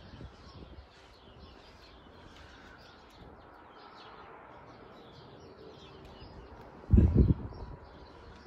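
Birds chirping faintly in the background, with a brief, loud low thump about seven seconds in.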